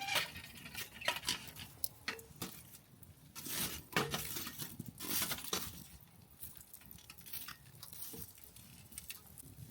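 Cookware and utensils being handled: irregular clinks, taps and knocks of metal or glass, with short rustling scrapes in between.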